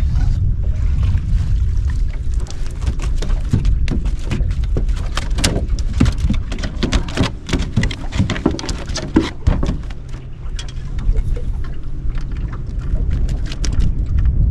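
A hooked flathead splashing and thrashing at the water, with irregular splashes and knocks over several seconds, heard over a steady low rumble.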